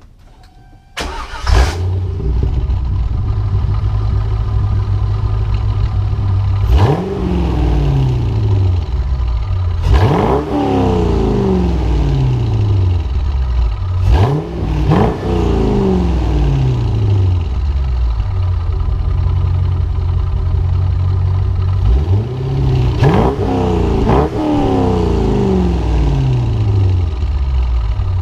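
C5 Corvette V8 through a DynoMax Super Turbo exhaust, starting about a second in and settling into a steady idle. It is revved several times, singly and in pairs, each rev climbing and dropping back to idle.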